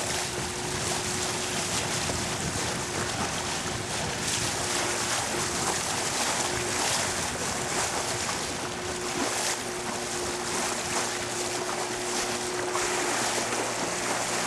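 A boat under way: a steady engine hum under a constant rush of wind and water noise.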